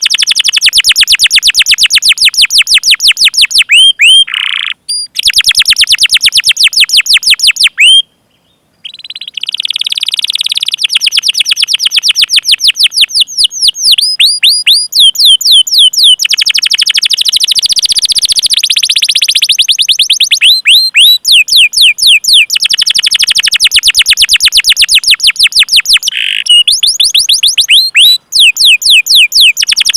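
Canary singing long rolls of rapid, repeated down-sweeping 'cuit cuit' chirps, many per second, broken by a few short pauses.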